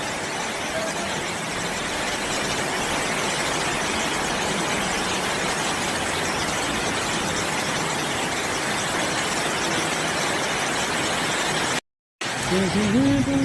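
Heavy rain pouring down as a steady, even hiss. It cuts out briefly near the end.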